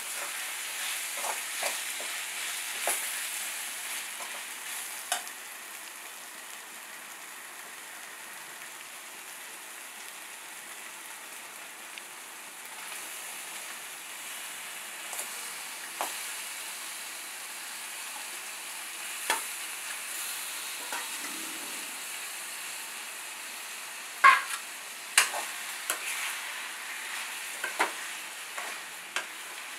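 Onion-tomato masala frying and sizzling in oil in a pan as a spoon stirs it, with sharp clicks and knocks of the spoon against the pan, loudest a little past two-thirds of the way. Marinated chicken pieces are tipped in and stirred through the frying masala.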